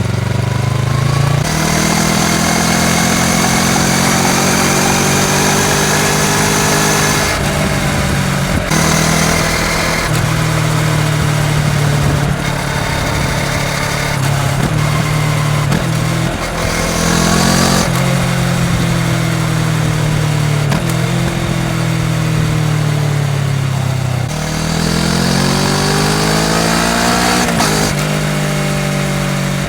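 Kawasaki Ninja 650 parallel-twin engine under way through a full Akrapovič exhaust, its revs rising and falling again and again as the rider works the throttle and gears. The pitch drops sharply about 24 seconds in, then climbs steadily.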